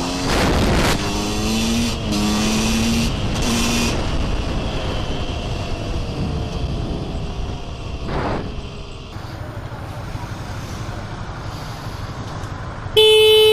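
Road traffic and wind noise from vehicles on the move, with a few short low tones in the first few seconds. Near the end a car horn starts a loud, steady blast.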